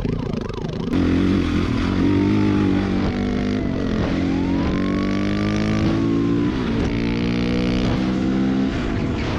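Dirt bike engine running and revving, with a siren slowly wailing down, up and down again behind it.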